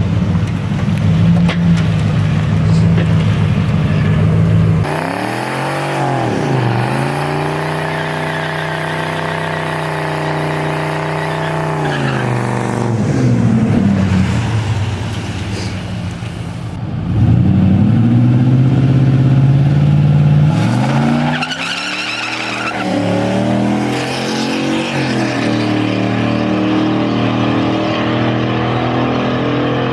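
A drag car's engine revving at the track, its pitch rising and falling several times and held high for a few seconds in the middle, with tyre squeal mixed in.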